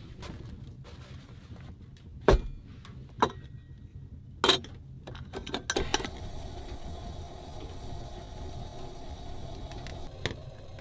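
A few sharp, separate knocks and clinks of objects being handled, then a steady even rushing noise from about six seconds in.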